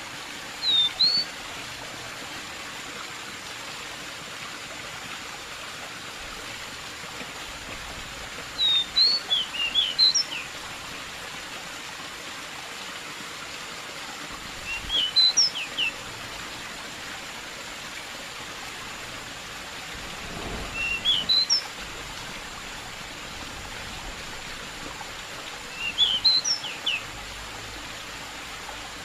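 Pied bushchat (decu) singing brisk phrases of a few quick rising whistled notes, five phrases spaced about five to six seconds apart, over a steady rush of flowing water.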